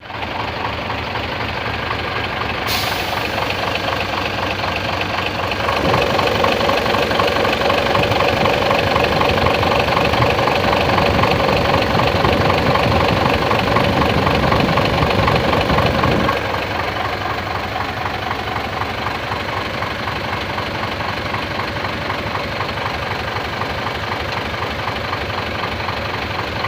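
Mitsubishi Fuso Super Great's 6M70 inline-six diesel engine idling, raised to a higher speed about six seconds in and held there for roughly ten seconds, then dropping back to idle.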